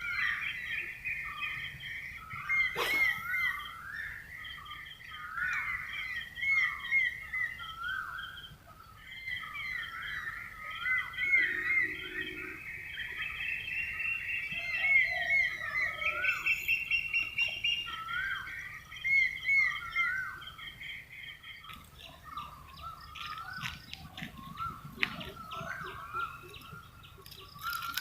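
Several birds calling and singing together in a busy chorus of repeated chirps and whistles. A sharp click comes about three seconds in, and scattered clicks are heard in the last few seconds.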